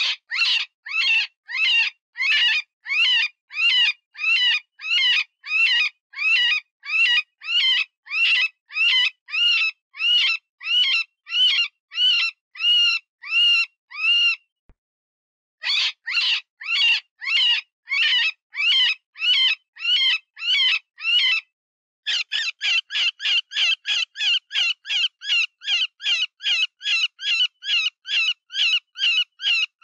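Cottontail rabbit distress call for luring predators: a long series of high, wavering squeals about two a second, broken off briefly about halfway through. In the last third it turns to a faster run of squeals, about three a second.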